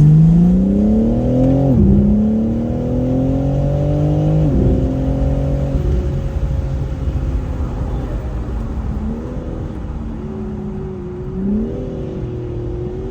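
Car engine accelerating hard: the revs climb, drop sharply at a gear shift, climb again, drop at a second shift, then hold fairly steady with small rises and falls.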